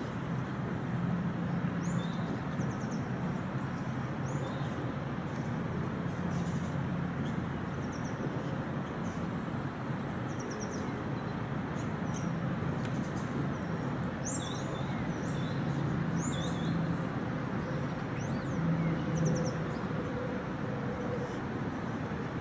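Small birds chirping, short high calls every second or two, over a steady rumble of distant traffic.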